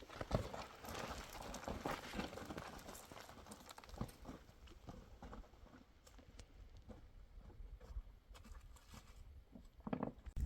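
Footsteps scuffing and knocking over rocky ground, irregular. They are busiest in the first three seconds and sparser after that.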